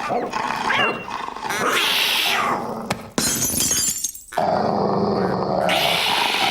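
Cartoon dogs growling and barking, short pitched calls in the first half, followed by noisier sound effects, with a brief drop about four seconds in.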